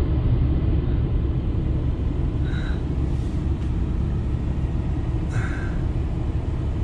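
Strong gusting wind, a steady low rumble, with two short faint higher sounds about 2.5 and 5.5 seconds in.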